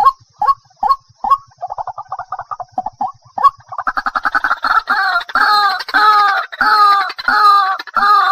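White-breasted waterhen calling: short clipped notes about two a second break into a fast stutter, then from about four seconds into loud, harsh repeated calls, each about half a second long.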